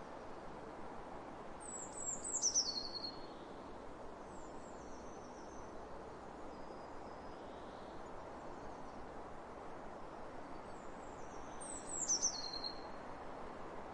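A songbird singing twice, about ten seconds apart: each time a short, high phrase of quick notes that fall in pitch. Fainter, softer phrases come between them, over a steady background hiss of open-air ambience.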